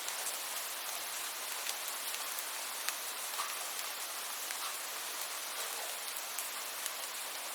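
Steady rain falling: a constant even hiss with scattered sharp ticks of individual drops.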